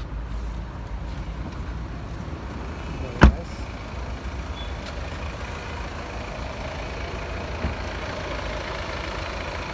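Volvo XC40's two-litre four-cylinder D4 diesel engine running with a steady low rumble, with a single sharp thump about three seconds in.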